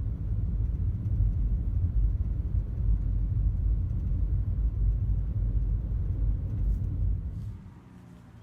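Steady low rumble that drops away sharply about seven and a half seconds in.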